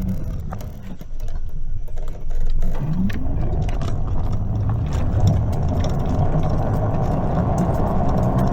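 Greenworks 60V electric mini bike under way: a motor whine rises in pitch about three seconds in as it speeds up, then settles into a steady hum over a rushing noise. The electric drive is quiet.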